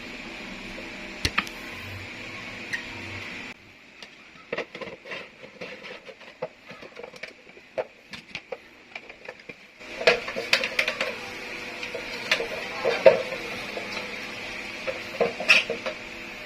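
Scattered plastic clicks and knocks from handling the purifier's ceramic filter cartridge and its housing. They run over a steady background hum that drops away about three and a half seconds in and comes back near ten seconds.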